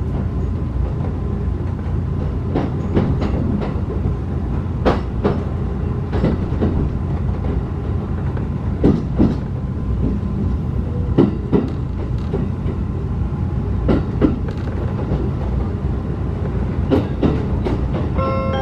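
Inside a locomotive-hauled passenger coach running along the line: a steady low rumble with sharp clicks, often in pairs, as the wheels cross rail joints.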